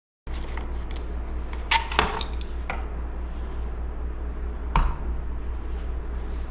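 Metal parts of a chainsaw's recoil starter clinking and clicking as they are handled and taken off: a cluster of clinks about two seconds in and a single sharp click near five seconds, over a steady low hum.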